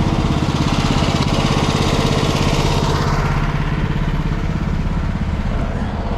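Diesel engine of a jump-started semi truck idling close by, a steady rapid low chugging, with a rushing hiss over it for the first three seconds or so.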